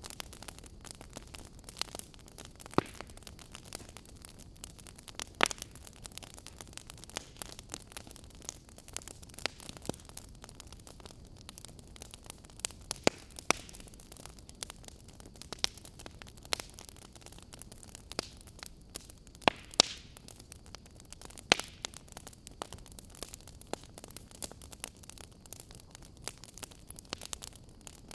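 Wood fire crackling in a fireplace: irregular sharp pops and snaps, a few standing out clearly, over a steady soft hiss.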